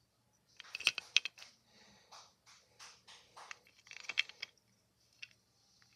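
Small hard objects clicking and clattering in irregular clusters as they are handled, busiest about a second in and again from about two to four and a half seconds in.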